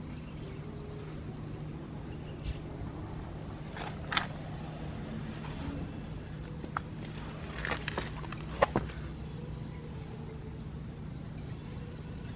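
Suzuki Grasstracker's air-cooled single-cylinder engine idling steadily through a Supertrapp aftermarket exhaust, with no abnormal noises. A few short sharp clicks come about four seconds in and again a little past halfway.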